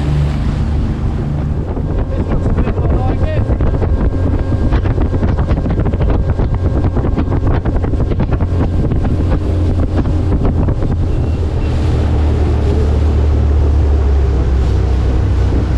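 Small boat's outboard motor running steadily under way, with wind buffeting the microphone.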